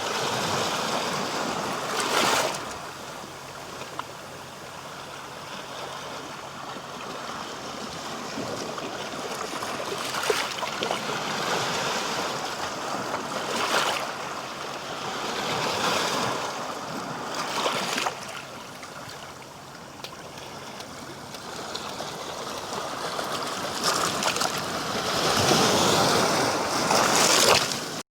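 Rushing, splashing water that swells and ebbs every few seconds.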